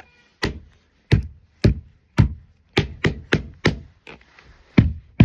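A series of about ten sharp taps and knocks at an uneven pace, roughly two a second, each dying away quickly.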